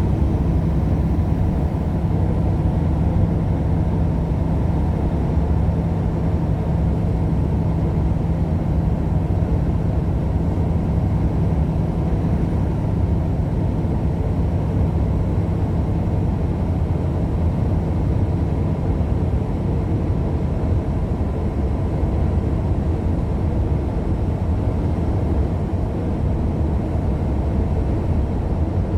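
Steady road and engine noise of a car cruising on the highway, heard from inside the cabin, with a constant low drone.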